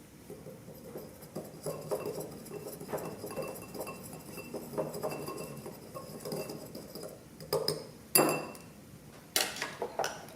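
A utensil stirring dry baking ingredients in a dish, with a quick run of scraping and clinking against the dish. Near the end come a few louder knocks, the loudest about eight seconds in.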